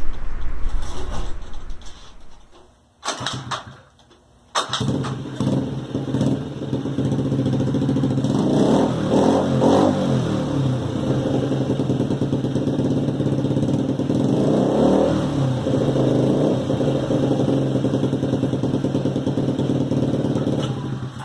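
A Honda Ruckus scooter's small single-cylinder four-stroke engine, breathing through an MNNTHBX SP aftermarket exhaust. About four and a half seconds in, the engine starts and settles into a steady low idle. The throttle is blipped twice, each time the pitch rising and falling back.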